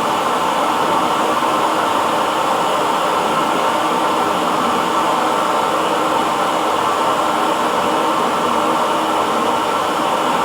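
Hair dryer blowing steadily, an even whooshing noise with a faint hum and no change in speed.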